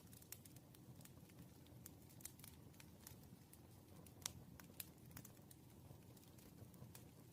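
Pen working on paper at a desk: faint, irregular light clicks and taps, with one sharper click a little after four seconds in.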